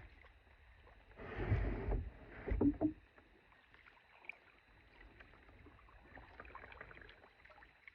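Kayak paddling on a lake: two louder paddle strokes with splashing between one and three seconds in, then low, steady water and paddle sounds.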